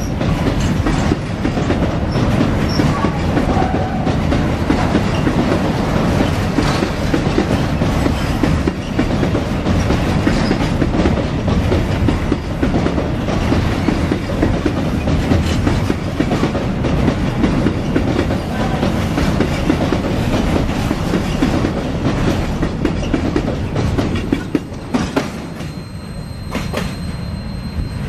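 Freight train wagons rolling past at speed, with a steady rumble and the clickety-clack of wheels over rail joints. Near the end the rumble eases and a thin, high, steady wheel squeal comes in.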